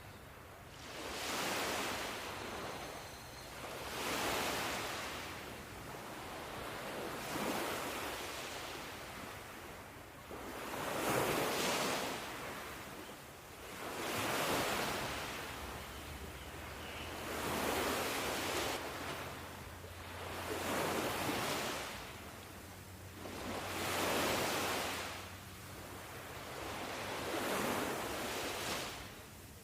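Ocean waves breaking on a shore in a steady hiss of surf that swells and falls back about every three seconds.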